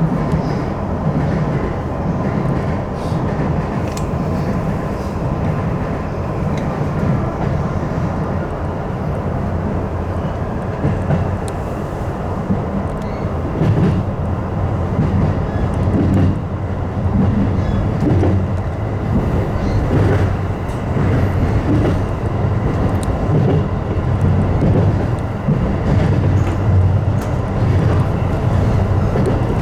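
Electric commuter train running, heard from inside the front car: a steady rumble of wheels and running gear with scattered clicks from the rails.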